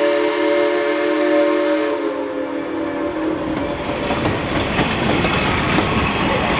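Geared steam locomotive's chime whistle sounding a chord of several notes, which cuts off about two seconds in. It is followed by the train rolling past, with rumbling and clicking from the wheels on the rail joints.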